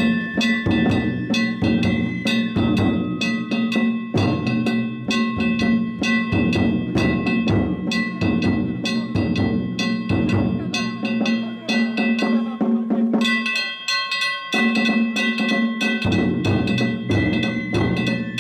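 Danjiri narimono ensemble: taiko drums beaten in a fast, driving rhythm under the ringing of hand-struck kane gongs. A little past the middle the low drum drops out briefly, then the full ensemble comes back in.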